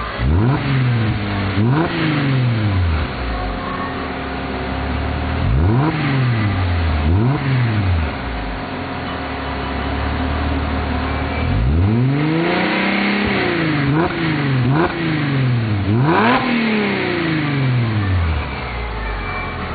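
Mercedes-Benz W207 E350's 3.5-litre V6 heard through a custom-built centre and rear muffler section, settling to idle between repeated throttle blips that rise and fall in pitch. About twelve seconds in comes a longer, higher rev, followed by a quick run of short blips.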